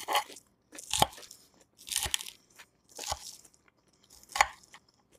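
Close-up crunching of a mouthful of tossed salad with crisp greens being chewed, five crunchy bites about one a second.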